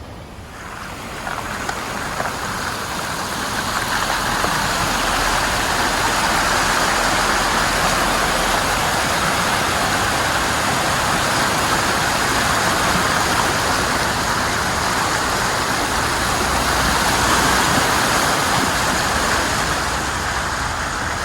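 Chevrolet Suburban driving, with a steady rushing noise that swells over the first few seconds and then holds.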